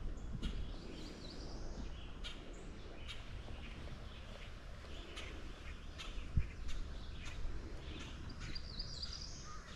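Small birds chirping and twittering in the streamside trees, over a steady faint outdoor background noise, with a few light ticks and one soft low thump about six and a half seconds in.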